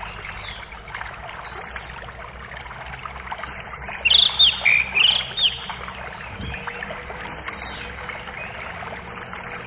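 Birds calling over a creek's steady running water. A short, very high note repeats about every two seconds and is the loudest sound. About four seconds in, a quick run of lower sliding chirps joins it.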